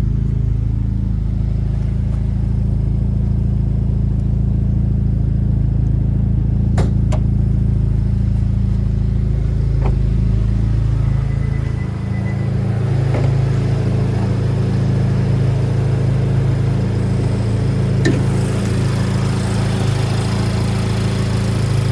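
Honda Civic Type R FL5's 2.0-litre turbocharged four-cylinder running steadily at idle through an AWE Track exhaust: a low, even drone with no revving, and a few faint clicks.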